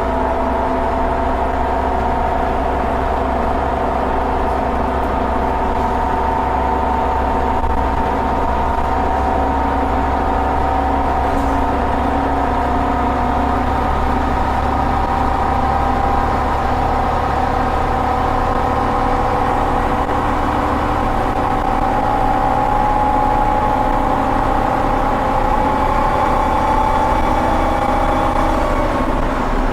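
Scania Omnicity single-deck bus heard from the back seat, its rear-mounted engine pulling hard under a low rumble. A steady whine climbs slowly in pitch as the bus gathers speed, then eases off near the end.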